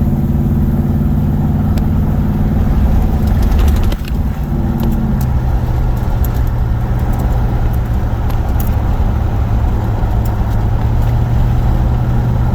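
1976 Oldsmobile Cutlass Salon's 455 V8 heard from inside the cabin while driving, its engine note building for a few seconds, dipping briefly about four seconds in, then settling into a steady, lower-pitched drone. The new exhaust is a little louder than the owner would like.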